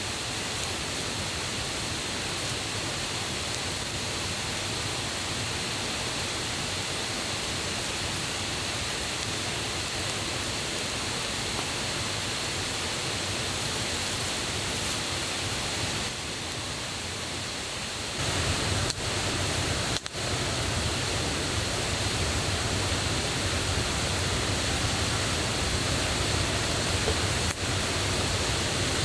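Steady rushing of a mountain river and waterfall running high after rain, with the level shifting abruptly a few times past the middle.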